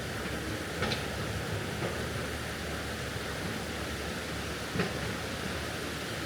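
Steady rush of water from a mountain stream running over rocks, with two faint brief clicks, about a second in and near the end.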